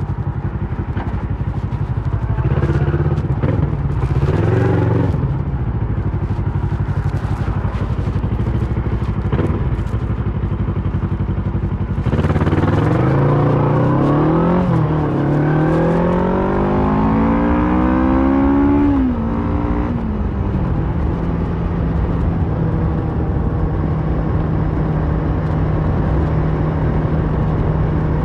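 Kawasaki Versys 650's parallel-twin engine through a Mivv slip-on exhaust, running steadily with a couple of short blips of throttle. About twelve seconds in it accelerates, its pitch rising through the gears with breaks at the gear changes, then settles back to a steady low note.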